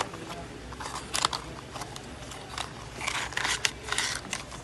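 Handling noise of phone cables being picked up and moved: scattered sharp clicks and short crackly rustles, a cluster about a second in and a denser run from about three seconds in.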